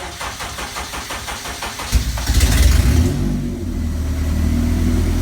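Honda K-series inline-four engine on its first start: the starter cranks it for about two seconds, then it catches, revs briefly and settles into a steady idle.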